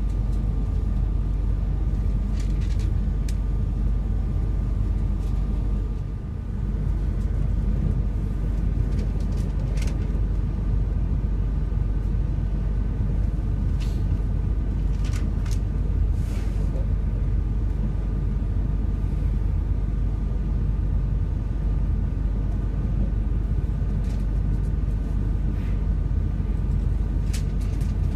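Passenger train running at speed, heard from inside the carriage: a steady low rumble with a faint steady whine and a few short clicks and rattles.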